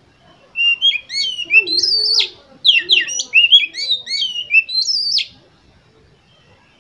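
Oriental magpie-robin singing a varied, loud phrase of quick whistled notes, many sliding up or down, which starts about half a second in and stops abruptly just after five seconds.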